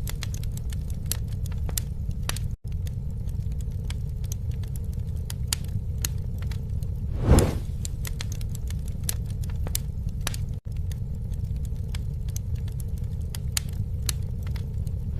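Campfire crackling: frequent sharp snaps and pops over a steady low rumble, with one louder pop about seven seconds in. The sound cuts out for an instant twice.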